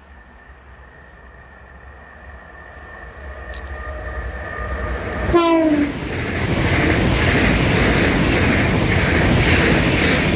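Pair of Class 365 electric multiple units approaching and passing at speed, growing steadily louder. About five seconds in the driver gives one short horn blast whose pitch slides down, and then the loud rush of the passing train takes over.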